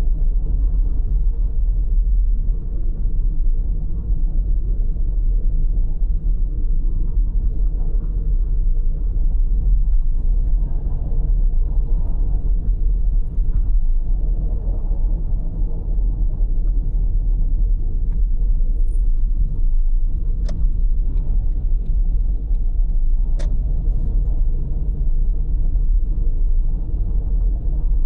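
Steady low road rumble of a car being driven, with two sharp ticks about two-thirds of the way through.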